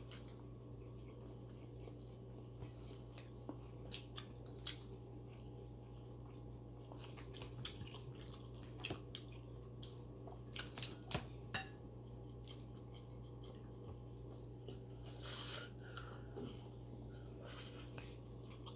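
Close-up eating sounds of grilled chicken inasal eaten by hand: chewing and biting, with scattered small clicks, over a steady low hum.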